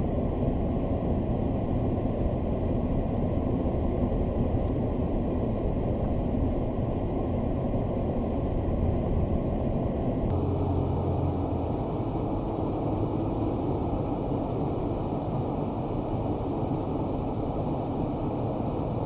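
Car driving: a steady low rumble of road and engine noise with no impacts. The sound changes abruptly about ten seconds in, where one recording cuts to another.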